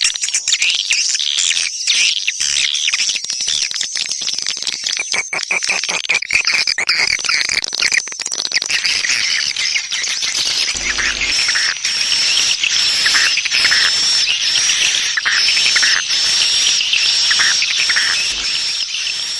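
Swiftlets twittering: a dense, continuous chatter of high chirps, settling into a repeating high chirp pattern about halfway through. It is the 'panggil' (summoning) swiftlet call, the kind played to lure swiftlets.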